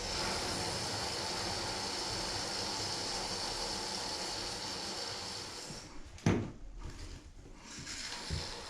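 Can of expanding spray foam being sprayed with a steady hiss, which stops about six seconds in. A single sharp knock follows, then a few light clicks.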